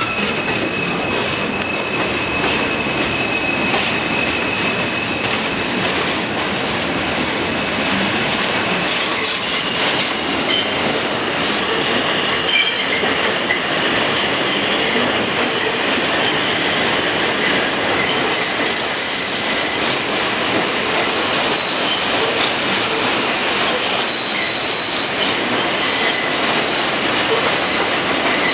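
New York City subway M train running through the station, its steel wheels squealing on the rails. High squeal tones come and go over a steady rumble and clatter.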